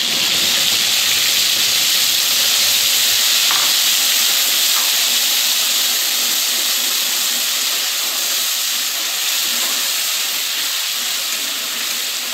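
Wet green paste of coriander, onion, garlic, ginger and green chilli sizzling loudly in hot oil with cumin and fennel seeds in a kadai: a steady hiss as the paste's water boils off in its first frying, easing a little near the end.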